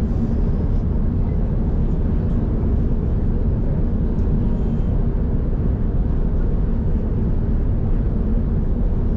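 Airbus A380 airliner cabin noise: a steady, even low rumble of engines and airflow heard from inside the cabin.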